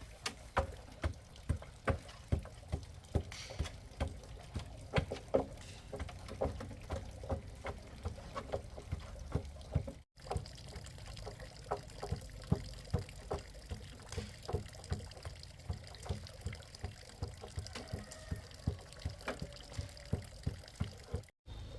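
Water dripping in irregular drops, several a second, over a low steady background; it breaks off for a moment about ten seconds in and again near the end.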